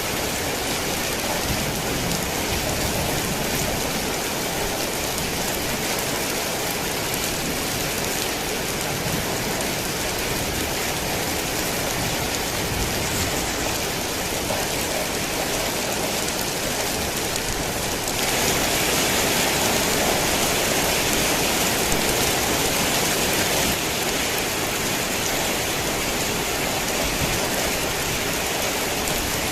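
Heavy rain falling steadily, a dense even hiss of drops on surfaces. It swells louder for about six seconds past the middle, starting and stopping abruptly, then settles back.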